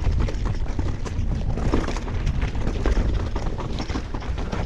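Mountain bike rolling over a rough dirt trail: a steady rumble of wind on the microphone, with frequent clicks and rattles from the bike.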